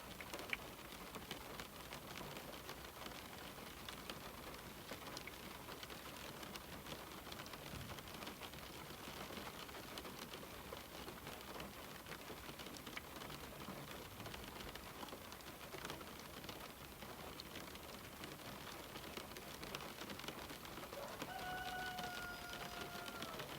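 Steady rain on a window, an even hiss dotted with small drop taps. Near the end a single held, slightly falling tonal call sounds for about two seconds.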